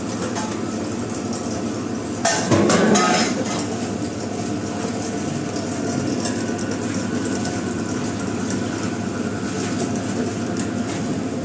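Steady rumbling noise, with a short clatter of metallic clinks about two seconds in.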